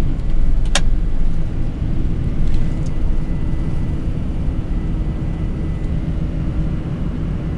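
Steady low rumble of engine and airflow noise on a Boeing 747 flight deck, climbing just after takeoff. There is a single sharp click about a second in.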